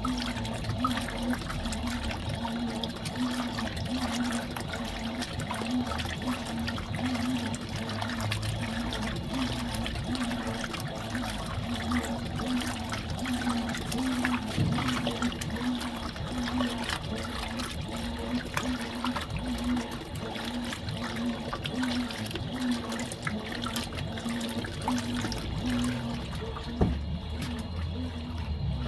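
Fisher & Paykel Smart Drive top-loading washing machine (MW059) mid-wash: water sloshing and splashing in the tub over a steady motor hum that pulses rhythmically.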